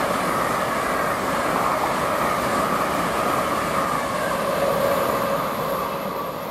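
LNER Azuma (Hitachi high-speed multiple unit) passing at speed: a steady rush of wheel-on-rail and air noise with a faint steady tone in it, fading away in the last second or so as the rear of the train goes by.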